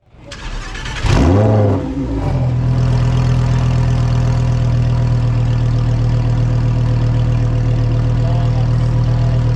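Lamborghini Huracán Evo Spyder's 5.2-litre V10 starting from cold. The starter turns it over, the engine catches with a loud flare that rises and falls about a second in, then settles by about two and a half seconds into a steady cold-start high idle.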